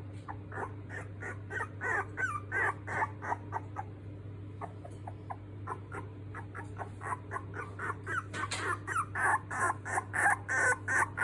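Miniature dachshund puppies squeaking and whimpering in a rapid run of short, high cries, growing louder and busier in the last few seconds, over a steady low hum.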